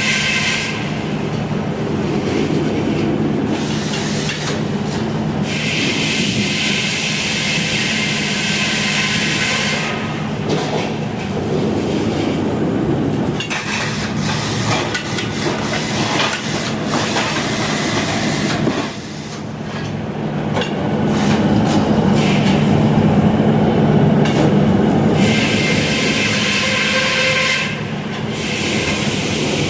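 Sawmill running while sawing a big log: a steady low engine drone, with a high whine from the blade in the cut that comes and goes several times.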